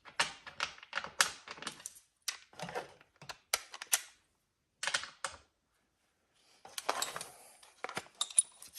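Quick, irregular metallic clicking and clacking from a wrench working loose the bolts of a garage door track bracket. It comes in short runs broken by pauses, with a rougher scraping stretch near the end.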